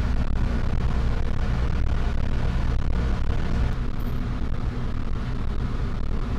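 Car ferry under way: its diesel engines running in a steady low drone, with a continuous rushing noise over it.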